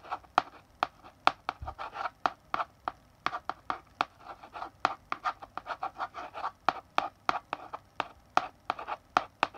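Chalk writing on a blackboard: quick sharp taps of the chalk striking the board, several a second, between short scratchy strokes.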